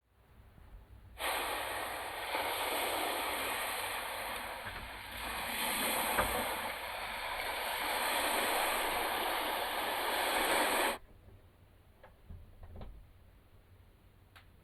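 Steady rushing of strong wind outdoors, swelling and easing a little, that cuts off suddenly about eleven seconds in, followed by a few faint low knocks.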